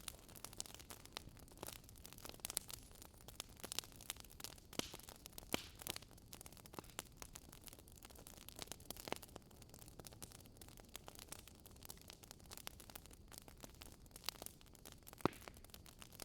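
Burning wood crackling, with irregular sharp pops and snaps over a faint hiss; one of the louder pops comes about fifteen seconds in.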